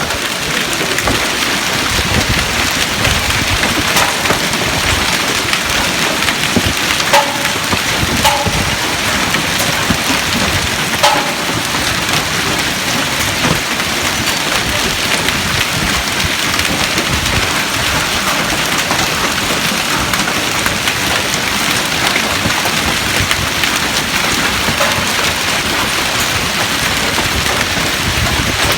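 Hailstorm: hailstones pelting down in a dense, steady clatter, with a few louder sharp hits that ring briefly, as of stones striking metal.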